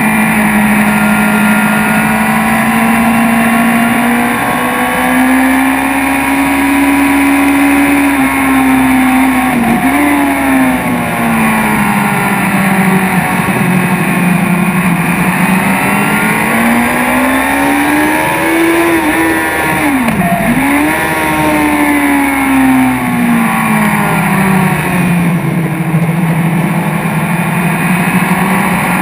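BMW S1000RR inline-four sport bike engine heard from on board at speed, its note climbing and falling with the throttle through the corners. There are two quick sharp drops in pitch, about a third and two-thirds of the way in, as the throttle is shut and picked up again.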